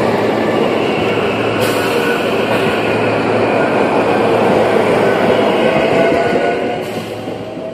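SEPTA Silverliner V electric multiple-unit train passing close by, a steady wheels-on-rail running noise that fades as the last car goes by about six seconds in.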